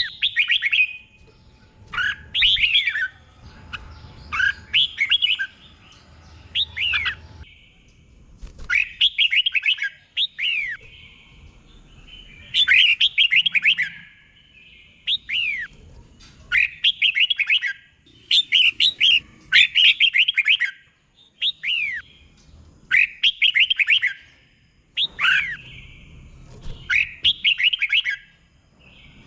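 Red-whiskered bulbul singing: short phrases of quick notes, many sliding down in pitch, repeated every second or two. This is a caged 'teacher' bulbul's song of the kind played to train and stimulate other bulbuls.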